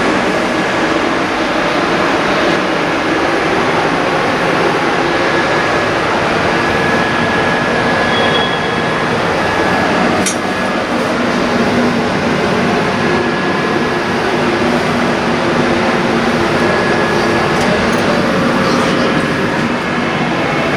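Running noise of a passenger train heard from inside the coach: steady wheel-and-rail noise with a thin whine that comes and goes, and a single sharp click about ten seconds in.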